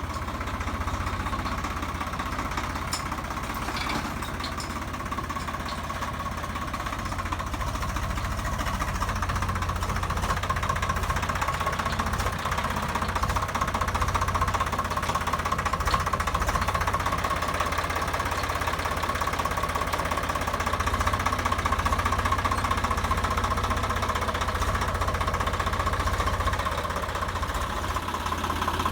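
Swaraj 855 tractor's three-cylinder diesel engine running steadily with a knocking diesel clatter.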